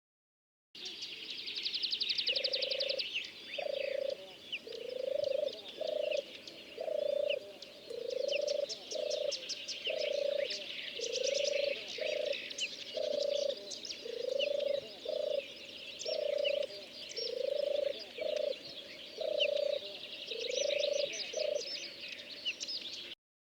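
Bird recording: one bird repeating short low calls, often two at a time, about one every second, over a dense chorus of high chirping and trilling songbirds.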